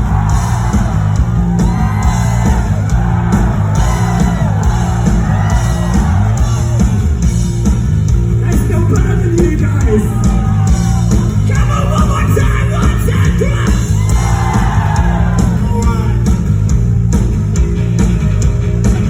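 Live rock band playing loudly in a hall, with a steady pulsing bass under a crowd yelling and screaming.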